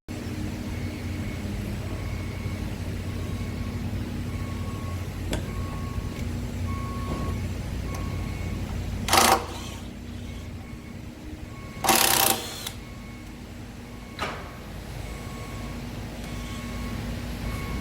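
A steady machine hum, broken about nine and twelve seconds in by two short, loud bursts of hissing noise, the second somewhat longer, with a few light knocks in between.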